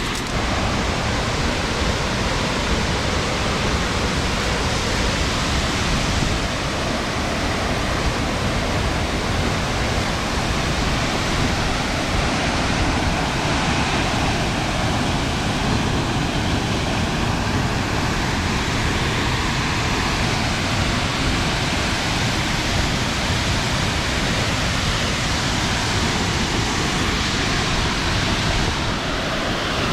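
Waterfall rushing: a loud, dense, unbroken wash of falling water, even in level throughout.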